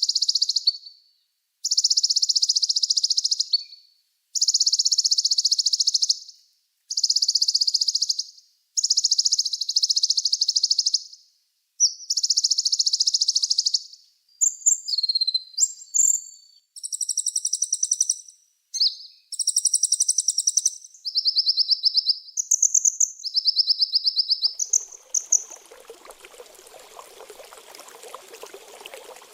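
Small songbird singing high-pitched trills in phrases of about two seconds with short gaps, then quicker, varied chirps and trills. Near the end the song stops and a steady sound of running, trickling water takes over.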